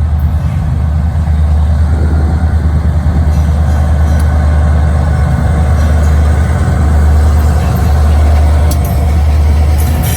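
Diesel locomotives rumbling past with a heavy, steady low drone.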